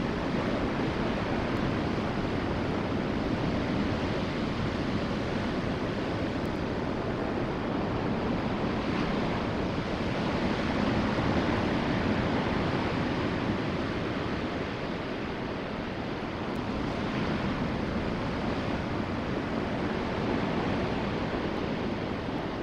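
Steady wash of ocean surf mixed with wind on the microphone, swelling a little in the middle and then easing.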